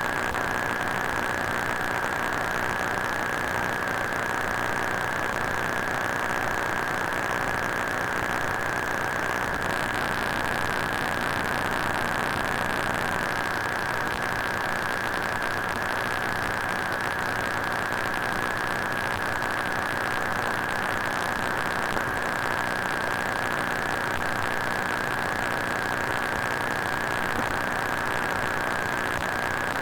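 Broken-electronics sound effect: a continuous static hiss and crackle with a steady high-pitched whine, unchanging in level.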